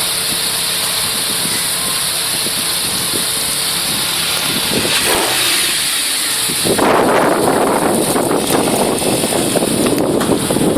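ABT-tuned Audi R8 V10 engine running steadily. About seven seconds in, a sudden, louder rushing noise comes in and covers it, like wind on the microphone as the car drives away.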